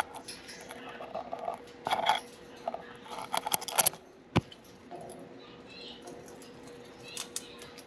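Budgies chirping and chattering amid scattered clicks and crackles of beaks chewing and shredding a soft-wood toy, with one sharp click about four and a half seconds in.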